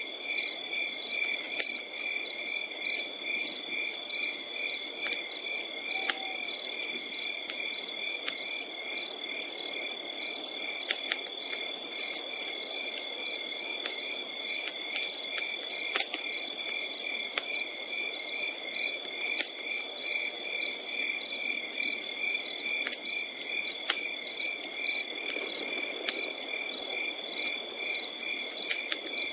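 Crickets chirping in a steady, regular pulsing rhythm over a continuous high insect trill. A campfire crackles with scattered sharp pops and a soft low hiss beneath.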